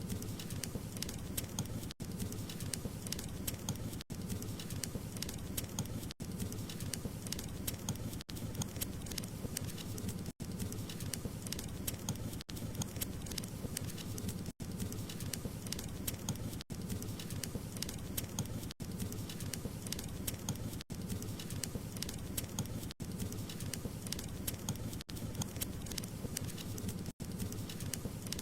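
Wood fire crackling steadily: dense small pops and snaps over a low rumble of burning logs, with a brief gap about every two seconds.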